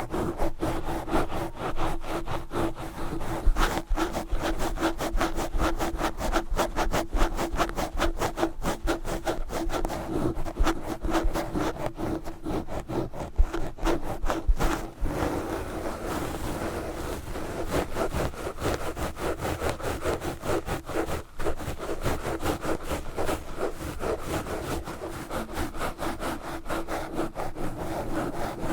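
Knitted yarn gloves scratching fast and hard directly on a Blue Yeti microphone: a continuous run of rapid rough strokes, with a steady low hum underneath.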